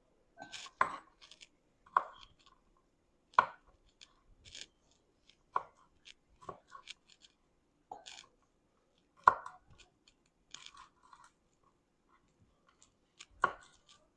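Kitchen knife cutting the ends off green beans against a cutting board: a string of separate sharp chops, irregularly spaced about one to two seconds apart, with lighter ticks between.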